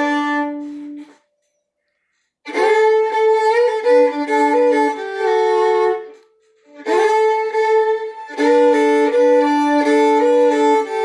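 Solo fiddle playing short phrases of a tune in double stops, a moving melody over a held lower string, with brief pauses between phrases.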